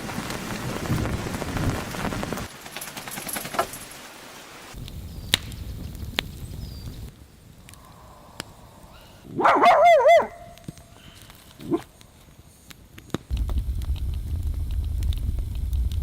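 A dog gives one short, wavering, high cry about two thirds of the way in, the loudest sound here. Around it are stretches of hissing noise, and near the end a low rumble, each starting and stopping abruptly.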